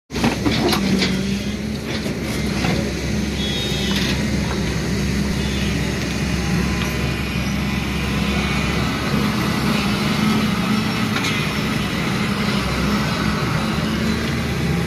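Excavator's diesel engine running steadily, with a few sharp knocks in the first four seconds.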